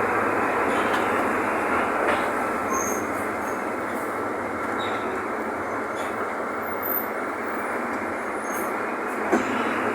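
Mercedes-Benz OF-1519 bus running on the move: a steady mix of engine and road noise, with a few sharp knocks or rattles.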